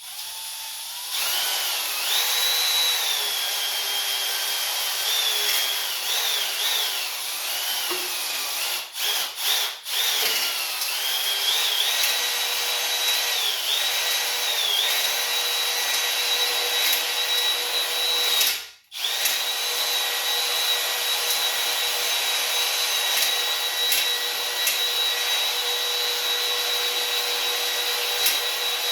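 Electric drill spinning an oiled stone cylinder hone in the cylinder bore of a 289 V8 block, honing the cylinder wall. The drill's whine wavers in pitch during the first half, cuts out briefly a few times around the middle, then runs steady.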